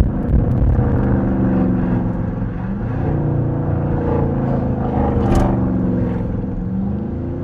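Dodge R/T's 5.7-litre HEMI V8 with a loud exhaust, catalytic converters still fitted, heard from inside the cabin as the car pulls away at low speed. The engine note rises twice as it builds revs. A short hiss comes about five seconds in.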